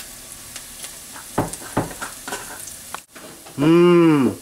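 Diced onion and garlic sizzling in melted butter in a stainless steel pot, with a few light taps about a second and a half in. Near the end a person's voice sounds briefly, rising then falling in pitch.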